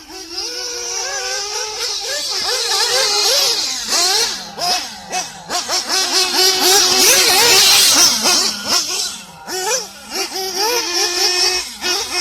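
Small nitro engine of a 1/8-scale RC buggy running at high revs. Its pitch wavers up and down as the throttle is worked, dropping twice when the throttle is eased, with a loud hissing exhaust note.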